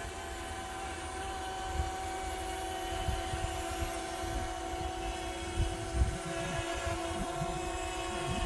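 Small multirotor drone hovering, its propellers giving a steady whine, with wind gusting on the microphone.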